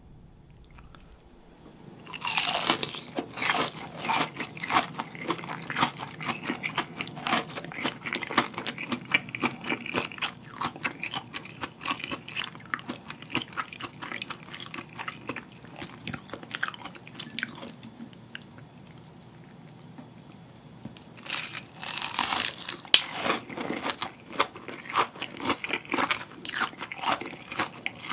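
Close-miked biting and chewing of crispy breaded fried jumbo shrimp. A loud crunching bite comes about two seconds in, followed by dense crackling chewing, and a second loud crunchy bite about three-quarters of the way through.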